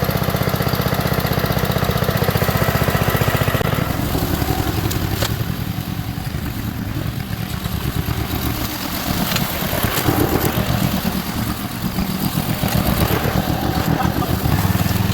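The 7hp Briggs & Stratton single-cylinder engine of a 1967 Unico garden tractor running while mowing. Its firing is even for the first few seconds, then the note turns uneven and varies as the engine takes load, with a few sharp clicks.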